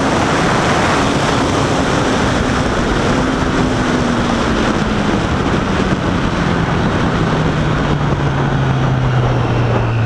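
Motorcycle engine with its revs dropping steadily over several seconds, under heavy wind rush on the riding microphone.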